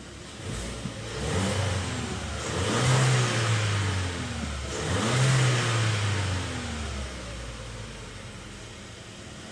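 Ford Focus engine revved twice in quick succession, the pitch climbing and falling back between and after, then settling to idle.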